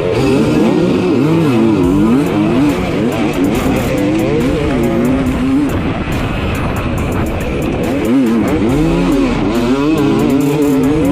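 Dirt bike engine revving up and down over and over, the pitch rising and falling in quick swells, with music underneath.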